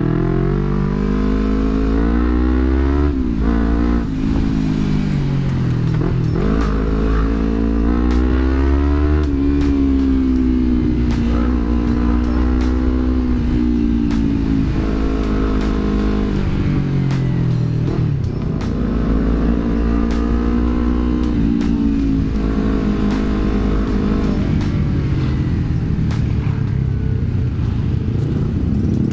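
Yamaha R25's 250 cc parallel-twin engine through an aftermarket Villan MV1 exhaust, with a deep bass note, revving: the pitch climbs and drops again and again, several times over.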